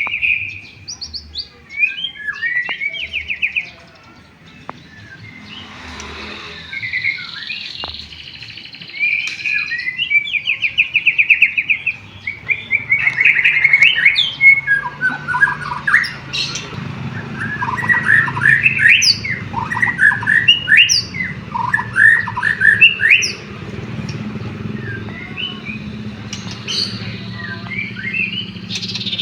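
White-rumped shama (murai batu) in full song: a rapid, varied run of trills, whistles and chirps that includes canary-like phrases it has learned. A low hum sits beneath the song from about halfway through.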